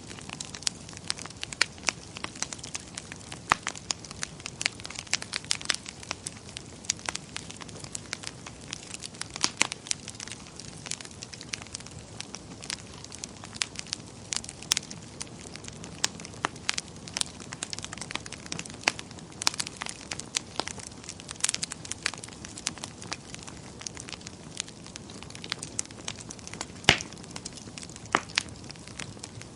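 Wood fire crackling in a fireplace: irregular sharp pops and snaps, several a second, over a soft steady hiss of flames.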